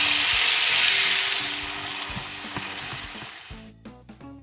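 Finely chopped red bell pepper and tomato paste sizzling hard in very hot oil in a frying pan as they are stirred. The sizzle fades away gradually and is gone shortly before the end.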